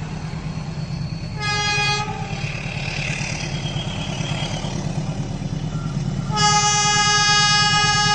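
A train's horn gives a short blast about a second and a half in, then a long blast from about six seconds in that is still sounding at the end, over the steady low rumble of the train. The horn sounds the S35 signal, held long.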